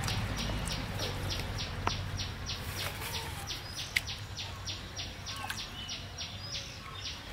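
Outdoor animal calls: a rapid, even pulsing call at about four pulses a second, with scattered bird chirps over it and a couple of sharp taps.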